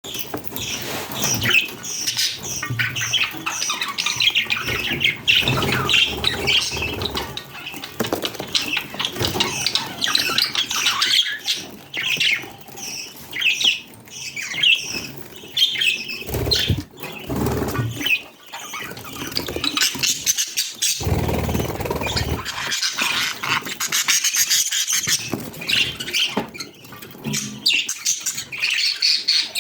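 Budgerigars chattering and warbling continuously, with a few low thuds mixed in at times.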